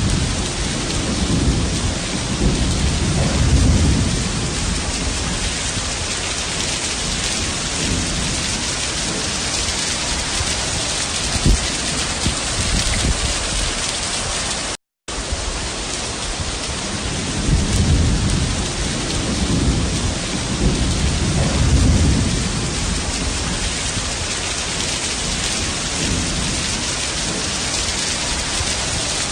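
Heavy rain pouring down in a steady dense hiss, with low rolls of thunder near the start and again in the second half. The sound drops out for a split second about halfway through.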